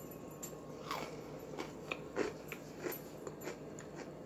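Someone chewing a thick-creamed Oreo cookie with the mouth close to the microphone: a string of small, irregular crunches and mouth clicks.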